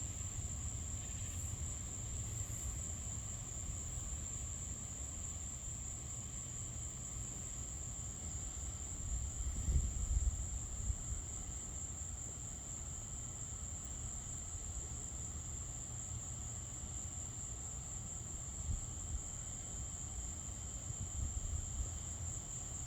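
Steady high-pitched insect chorus, like crickets, over a low rumble that swells briefly about ten seconds in.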